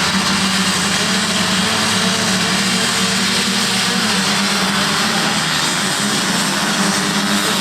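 A pack of motocross bikes running hard together, their engines blending into one dense, steady drone.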